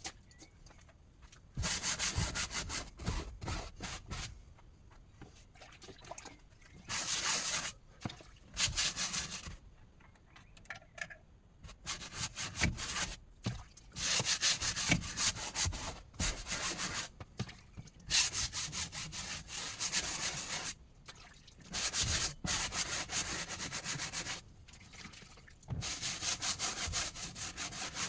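Rough scraping on wood in repeated bouts of one to two seconds, each made of quick strokes, with short pauses between.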